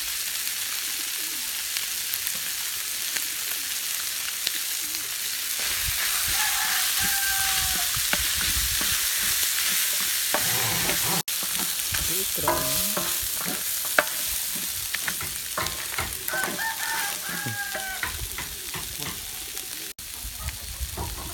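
Seafood frying in a large pan, sizzling steadily while a spatula stirs and scrapes red chili paste through it, with the stirring growing heavier about five seconds in. A rooster crows a few times in the background.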